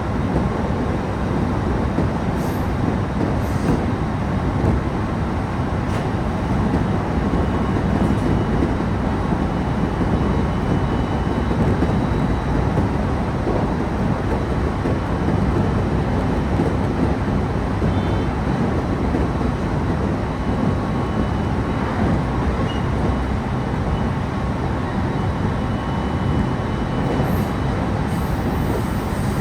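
Passenger train running steadily along the line, heard from inside the car: a continuous rumble of wheels on the rails.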